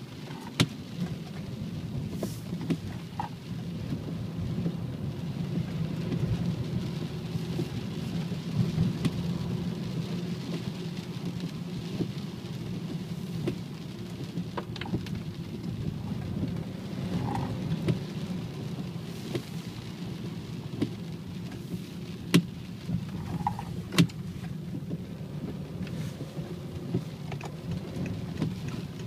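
Low, steady droning rumble from a BMW 535d, with scattered short clicks and ticks; the owner links the car's whining, howling noise to the gearbox.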